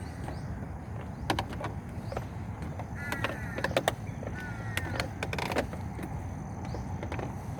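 Outdoor ambience with a steady low rumble of wind on the microphone and scattered sharp clicks and knocks. A bird gives two short calls, about three seconds in and again near five seconds.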